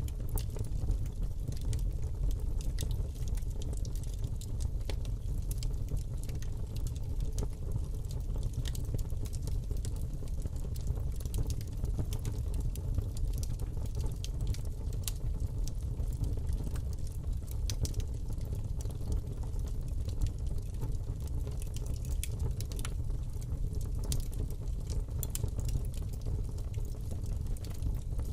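Fire burning in a fireplace: a steady low rush of flames with frequent sharp crackles and pops scattered throughout.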